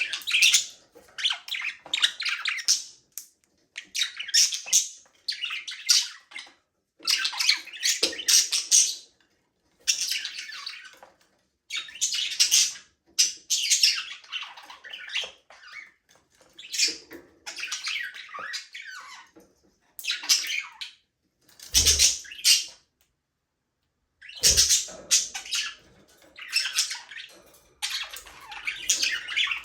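Budgerigars chirping and chattering in bursts of a second or two, with short pauses between. There are two brief low thumps near the middle.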